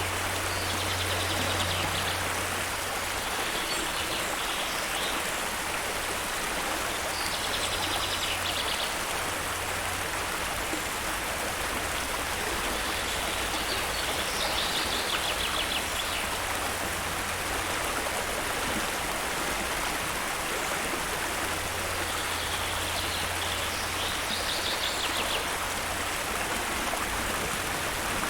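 Steady rushing of a waterfall. A bird gives short, high, trilled calls a handful of times over it.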